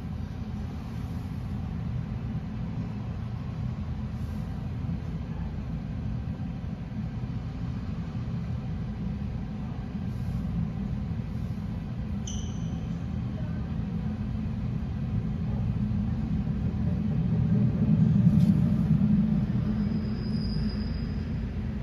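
NJ Transit commuter train of Multilevel cars departing, heard through window glass: a steady low rumble of the cars rolling past that grows louder about 18 seconds in as the electric locomotive at the rear goes by. Two short high-pitched squeals cut in, about 12 seconds in and near the end.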